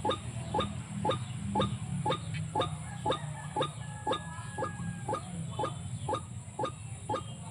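White-breasted waterhen (ruak-ruak) calling: a rapid, regular series of short harsh notes, about two a second, over a steady low rumble.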